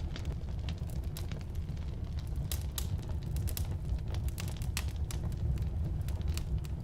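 Firewood burning in a fireplace: a steady low rumble of flames with irregular crackles and pops from the wood, some sharper and louder than others.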